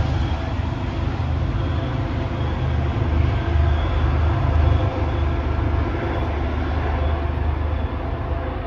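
Passenger train running by at a station: a steady, loud low rumble with a wash of rail noise, easing off slightly near the end.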